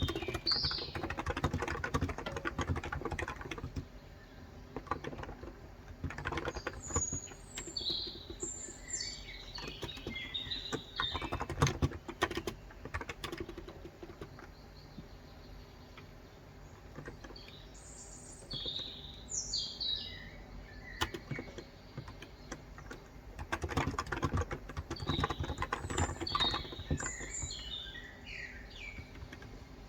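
Bursts of typing on a Cox Endeavour electrostatic capacitive (35 g) tenkeyless keyboard, keys clicking in quick runs with pauses between. Birds chirp in short high phrases now and then, including in the pauses.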